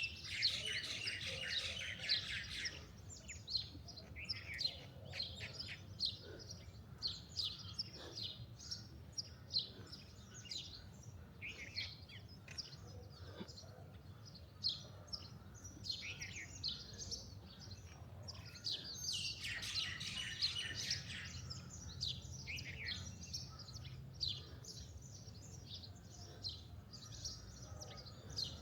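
Several wild birds chirping and singing, with two denser bursts of song, one near the start and one about two-thirds of the way through, over a faint low steady background noise.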